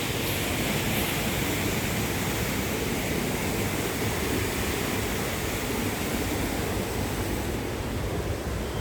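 Steady rushing of a waterfall's falling water, an even noise that does not let up.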